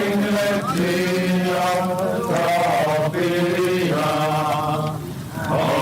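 Men chanting a Hebrew prayer in an archival 1967 recording, voices held on long, drawn-out notes that step up and down in pitch.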